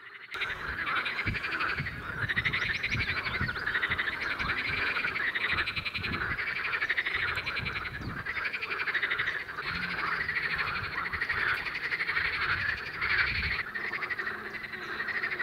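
Dense chorus of many male water frogs (common water frogs and pool frogs) croaking together in overlapping, repeating calls without a pause, starting abruptly just after the start. It is a spring breeding chorus of males calling to attract females.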